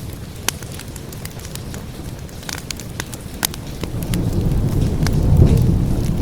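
Wood fire crackling with scattered sharp pops over steady rain, while a low rumble of thunder swells up about four seconds in.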